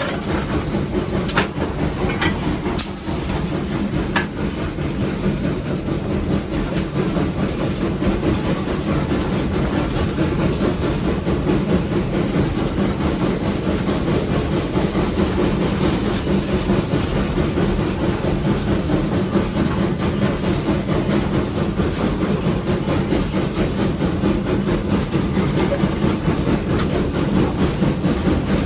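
Nevada Northern No. 81, a 2-8-0 steam locomotive, heard from its cab while running under way up a grade: a loud, steady, dense running noise of the engine working, with a few sharp metallic clicks in the first few seconds.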